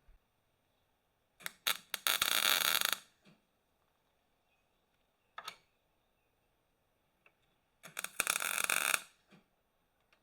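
MIG welder laying two short tack welds on steel, each a crackling hiss lasting about a second, led in by a few sharp clicks, with a brief spark-like blip between them.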